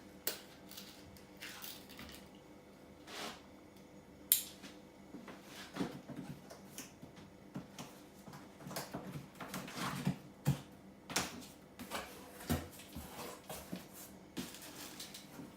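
Cardboard packaging being handled and cut open: irregular rustles, scrapes and light knocks.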